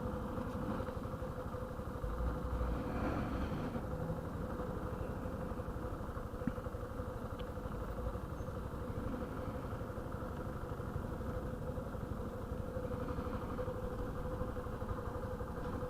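Yamaha motorcycle engine running steadily.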